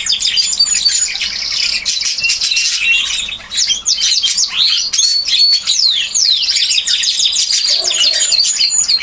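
Domestic canaries singing: a dense stream of rapid trills, chirps and quick falling whistles, with phrases overlapping. Two birds are trading song phrases back and forth.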